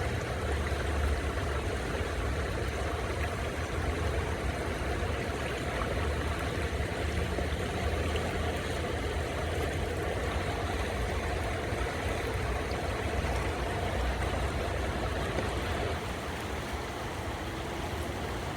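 Steady rushing of river water with a deep low rumble underneath, slightly quieter near the end.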